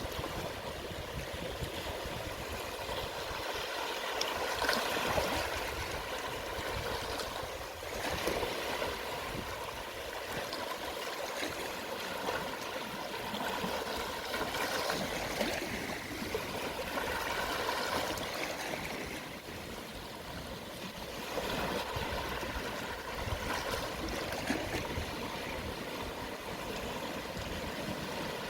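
Small, gentle sea waves washing onto the shore at low tide: a steady wash of surf that swells softly every few seconds as each wave comes in.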